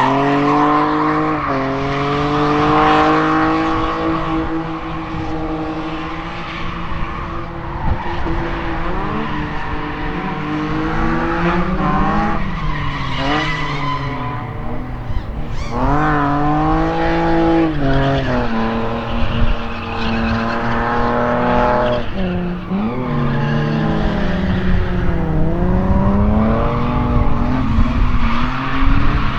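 Drift car engine revving hard, rising and falling over and over, with tyres squealing and skidding as the car slides.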